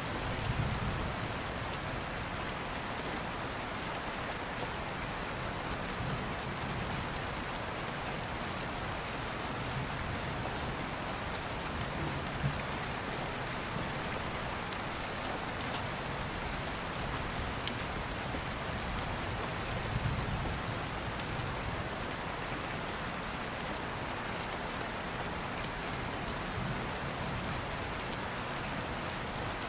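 Steady rain falling on a surface, an even hiss with a few soft low rumbles swelling and fading and scattered sharp little clicks.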